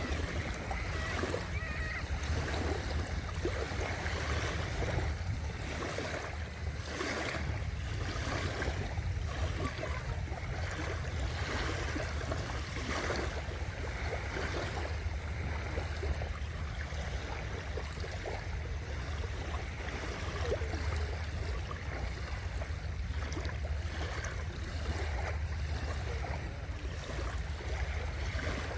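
Sea waves washing and splashing in a steady wash of water, with a continuous low rumble underneath.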